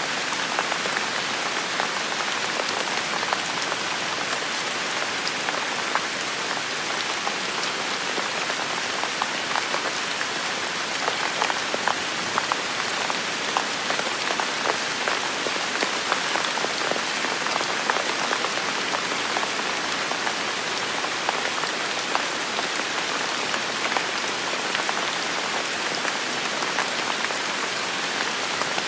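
Heavy, steady rain falling and pattering on surfaces, with many individual drops ticking sharply through the continuous hiss.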